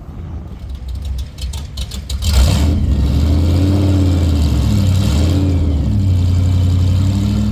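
A car engine comes in loud about two seconds in and keeps running with a deep, steady rumble.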